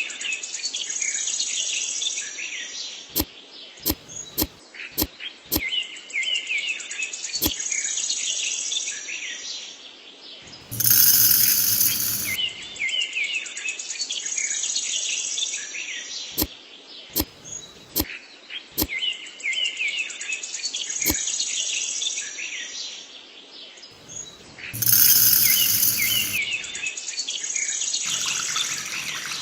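Birds chirping and twittering in repeated bouts, with a scatter of sharp clicks. Two louder noisy bursts come about 11 and 25 seconds in.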